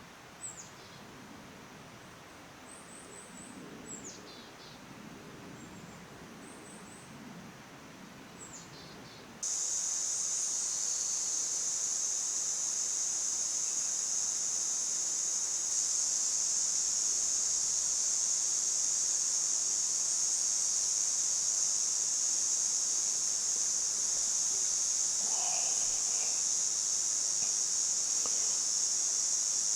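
Bird calls in the woods: a short falling whistle repeated every few seconds. About a third of the way in, a loud, steady, high-pitched insect chorus starts suddenly and drowns them out. A couple of faint calls come near the end.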